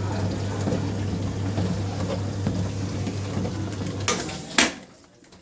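Faure LVA155 dishwasher running, its motor humming steadily under the rush of water, until two sharp clicks about four seconds in, the second louder, after which the machine goes quiet.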